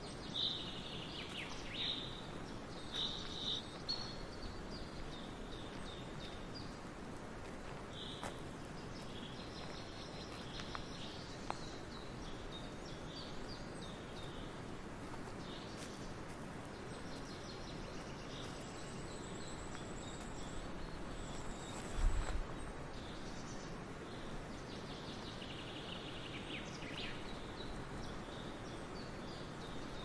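Small birds chirping in short high calls over a faint, steady outdoor hiss, with one low thump about two-thirds of the way through.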